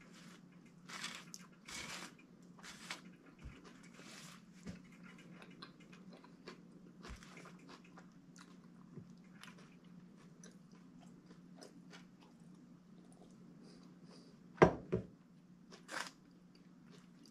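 A man chewing and biting into a Subway sandwich close to the microphone, with scattered short rustles over a steady low hum. About fourteen and a half seconds in come two sharp knocks in quick succession, the loudest sound.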